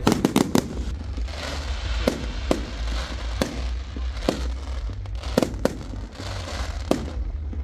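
Fireworks going off: a quick cluster of sharp bangs at the start, then single cracks every half second to a second, over a steady crackling hiss.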